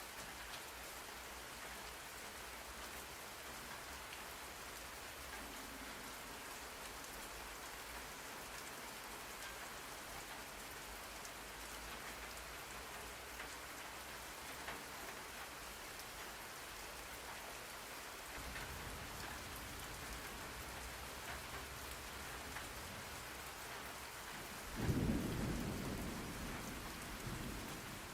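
Steady rain falling, with a roll of thunder about 25 seconds in that fades off near the end; a low rumble is building for several seconds before it.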